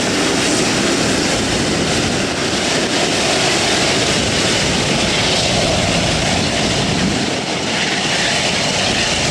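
Jet airliner engines running loud and steady, a continuous roar with no breaks.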